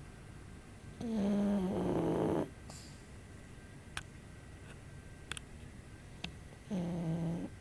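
Pug snoring softly in her sleep: two long, modest snores about five seconds apart, each with a low drone that dips slightly in pitch as it starts.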